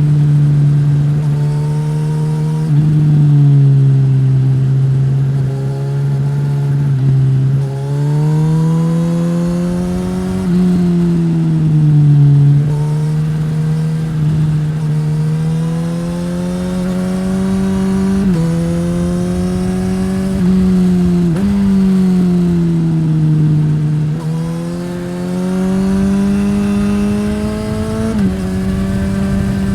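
Suzuki GSX-S1000 inline-four running through a Yoshimura R-11 slip-on exhaust, revving up and easing off. The pitch climbs and falls repeatedly, with several sudden drops at gear changes.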